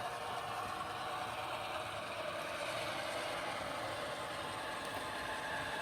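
HO-scale GP38 model diesel locomotive running around the layout, its sound decoder playing a steady diesel engine sound through its small onboard speaker.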